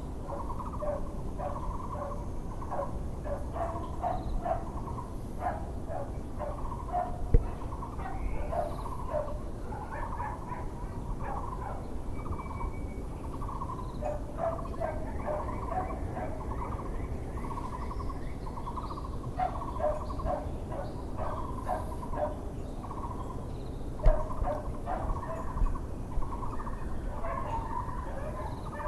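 A Taiwan barbet (Muller's barbet) calls in long runs of repeated low notes, with other small birds chirping higher up over a steady low background rumble. Two sharp knocks stand out, about seven seconds in and again near twenty-four seconds.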